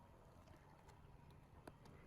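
Near silence: faint low background rumble with a few faint, short clicks.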